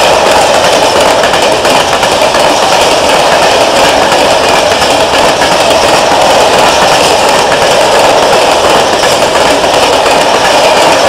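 Freight train of covered hopper wagons rolling past close by: a loud, steady noise of steel wheels running on the rails.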